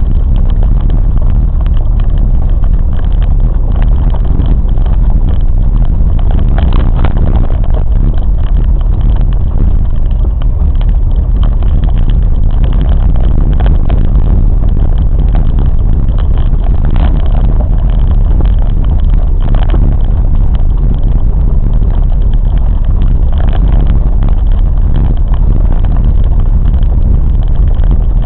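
A train running steadily, heard loud from on board: a continuous heavy low rumble with scattered clacks and knocks over it.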